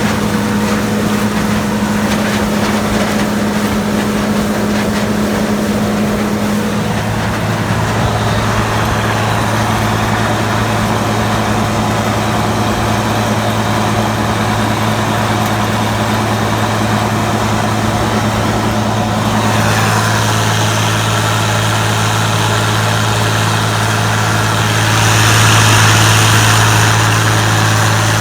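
A large engine running steadily with a low, even hum. The sound changes slightly about seven seconds in and again a little after halfway, then swells briefly near the end.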